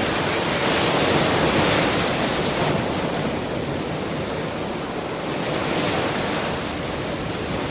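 Ocean surf: waves washing in and drawing back as a steady rushing hiss, louder over the first couple of seconds, easing, then swelling again near the end.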